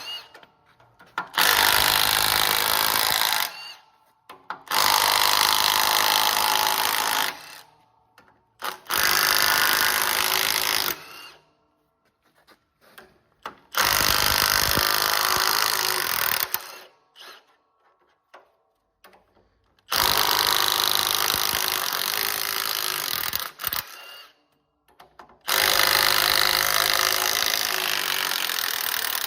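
Power tool run in six bursts of two to four seconds each, stopping briefly between them.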